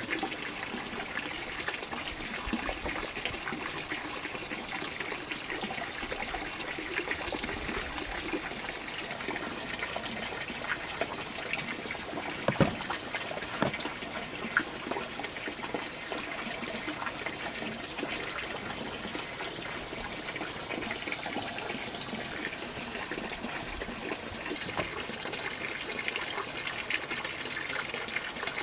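Water trickling and running steadily, with small clicks throughout and one sharper knock about halfway through.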